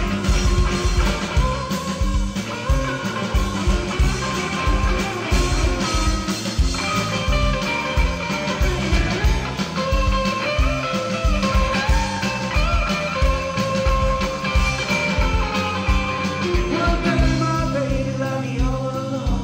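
Live rock trio playing an instrumental passage: an electric guitar lead with bending notes over drums keeping a steady beat.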